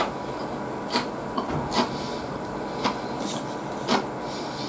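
Close-miked eating sounds: chewing and mouth noises with short sharp clicks roughly once a second, over a steady background hiss.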